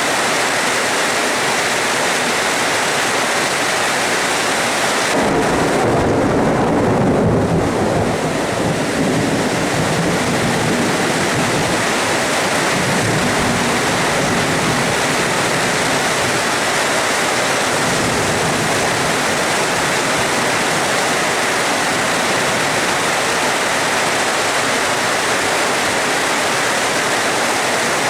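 Steady rain hissing, with a roll of thunder that starts suddenly about five seconds in, rumbles for a few seconds and fades, followed by a softer rumble.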